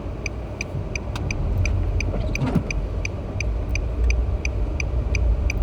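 A car's turn-signal indicator ticking evenly, about three clicks a second, over the steady low rumble of the car driving, heard inside the cabin.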